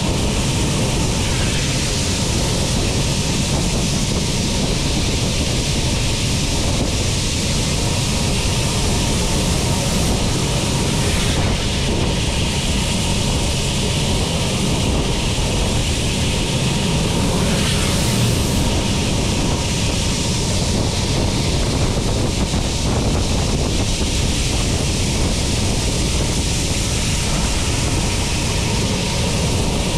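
Steady rush of wind over a microphone mounted on a moving train, with the low running rumble of the train on the rails underneath.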